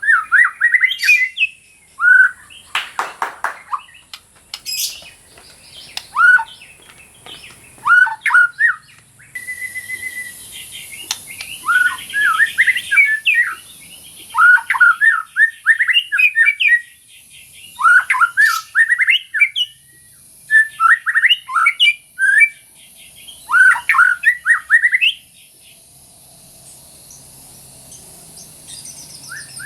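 White-rumped shama singing in repeated bursts of fast chirping and whistled notes, with short pauses between phrases. The song goes quieter for the last few seconds.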